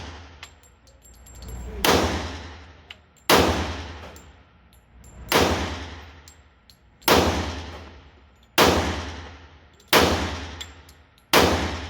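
Handgun fired seven times in slow, aimed succession, roughly one shot every one and a half seconds, each report followed by a long echoing decay in an indoor shooting range.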